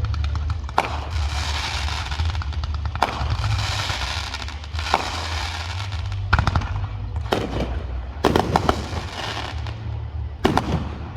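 Fireworks going off: a sharp bang every second or two, with several in quick succession about eight seconds in and crackling between the bangs, over a steady low rumble.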